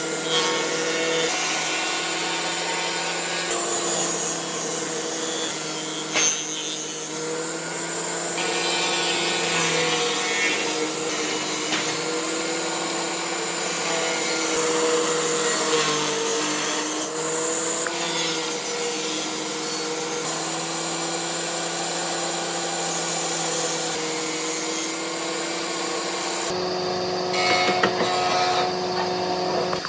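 An electric power tool running on wood: a steady motor hum with slight dips in pitch under a rasping hiss of wood being worked. The sound changes abruptly near the end.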